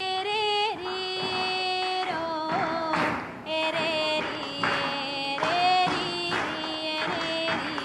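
A female voice singing a slow melody in long held notes, with brief breaks between phrases.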